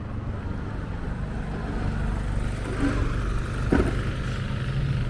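A motor vehicle's low engine rumble, growing gradually louder, with one sharp knock almost four seconds in.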